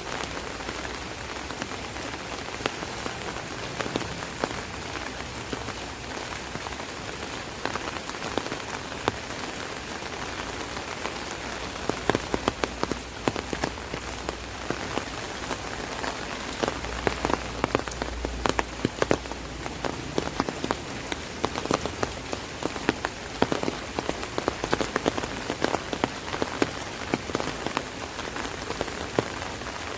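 Rain falling on an umbrella: a steady hiss of rainfall with many sharp taps of single drops, which come thicker and louder from about twelve seconds in.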